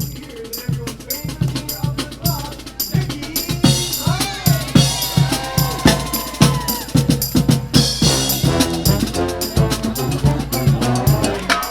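Marching band playing: a steady beat on bass drum and snare, with the brass coming in on a melody about three and a half seconds in.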